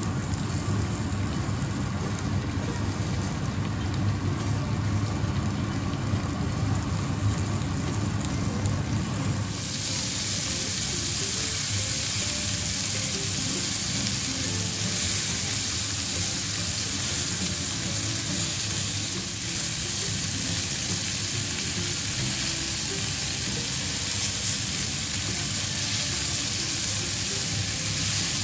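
Pork-belly-wrapped tofu rolls frying in oil in a pan, a steady sizzle that turns suddenly brighter and louder about ten seconds in, as the pan fills with browning rolls.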